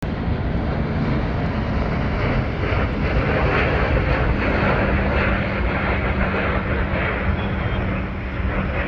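Airbus A320 jet airliner's engines on final approach: a steady, loud rumble with a low hum underneath.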